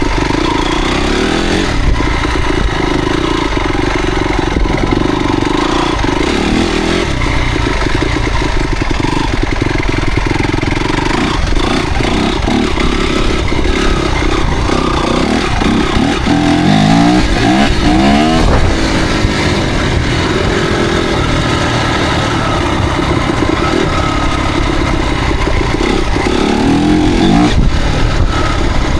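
Motocross dirt bike engine running loud and continuous, its pitch rising and falling as the throttle is worked, with clusters of quick revs in the second half.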